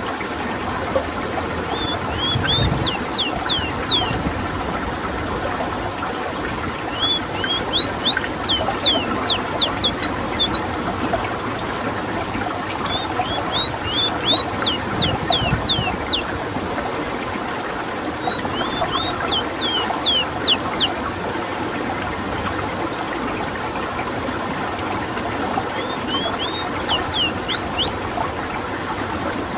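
Ruddy-breasted seedeater (Sporophila minuta) singing: about five phrases, one every five or six seconds, each a few soft notes running into a quick series of high, down-slurred notes. A steady hiss lies under the song throughout.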